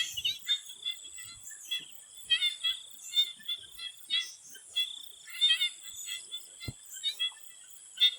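A swamp frog chorus: many short, repeated calls overlapping several times a second, over a steady high-pitched insect drone. There is one short low knock about two-thirds of the way through.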